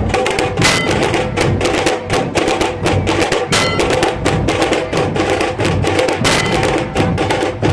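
Nashik dhol drums playing a fast, dense, driving rhythm of strikes with heavy bass.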